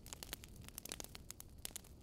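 Wood fire crackling: irregular sharp pops and snaps over a low, soft rumble.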